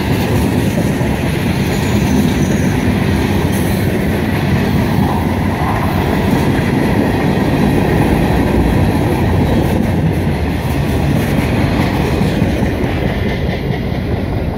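Freight cars of a CSX freight train rolling past close by: steady noise of steel wheels on rail with a clickety-clack, easing slightly near the end as the last cars go by.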